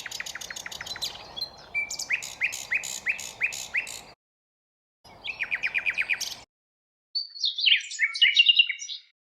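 Nightingale singing: three phrases of rapidly repeated sharp notes, with a short silence between each, the last a quicker jumbled warble.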